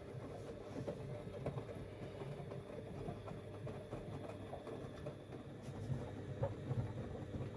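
Siemens Extraklasse XLs 140 A front-loading washing machine running in the early wash phase of a Cottons 60°C stains program: a steady low hum with small irregular knocks.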